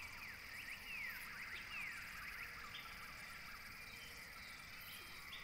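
Faint outdoor ambience: many quick, high chirps from small birds over a steady hiss.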